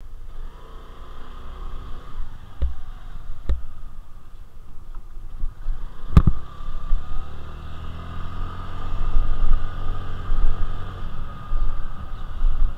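Honda Navi's small single-cylinder engine running as the bike pulls away and rides along the street, getting louder as it speeds up in the second half, with road and wind noise. A few sharp knocks, the loudest about six seconds in.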